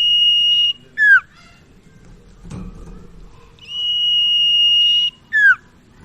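Common iora (sirtu) singing its whistled song: a long, level, high whistle, each followed by a short downward-sliding note, repeated twice.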